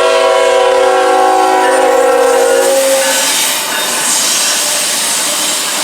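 CSX freight locomotive's air horn sounding a chord of several notes, cutting off about three seconds in, followed by the steady noise of the freight train running past.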